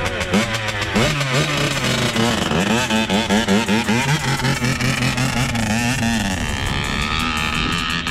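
Yamaha YZ80's small two-stroke engine revved up and down again and again in short throttle blips while the bike sits in gear: the rider is blipping the gas without holding it through the pull-off.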